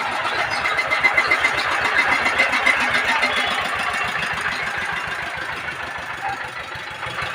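An engine running steadily with a rapid, even pulse, under a dense wash of noise.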